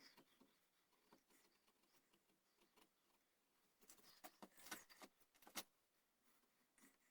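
Faint scraping, cutting strokes of a hand carving tool on a wooden gunstock, with a quicker run of louder strokes from about four to five and a half seconds in.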